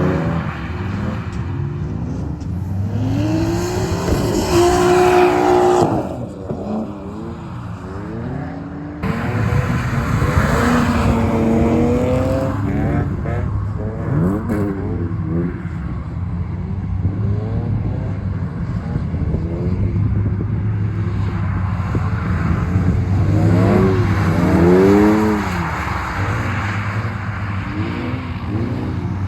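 Drift cars on track: engines revving hard, their pitch rising and falling over and over as they slide, over a steady low engine drone.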